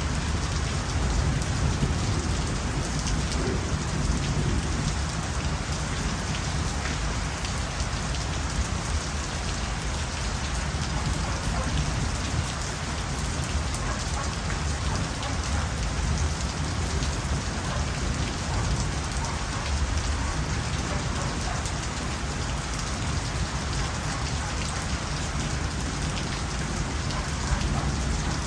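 Steady heavy rain falling at night: a dense, even patter of drops with a deep rumble underneath.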